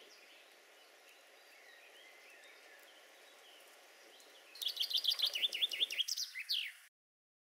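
Faint outdoor background with distant bird calls, then, about four and a half seconds in, a songbird sings close by: a quick run of high, repeated chirps lasting about two seconds before the sound cuts off suddenly.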